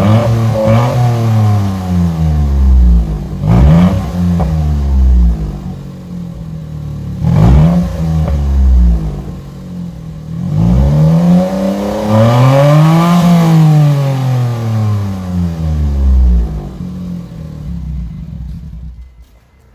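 Honda Acty kei truck's engine running through a straight pipe with no muffler, very loud, revved repeatedly: several quick blips and one longer rev about two-thirds of the way through, each rising then falling in pitch. The engine sound dies away near the end.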